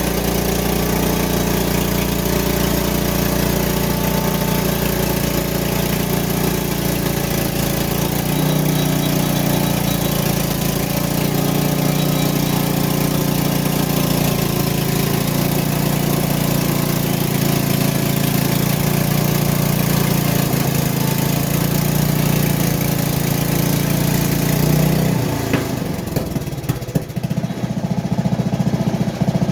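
Small gasoline engine of a portable band sawmill running steadily. Its note changes sharply about 25 seconds in, with a few clicks, before it settles into a different steady hum.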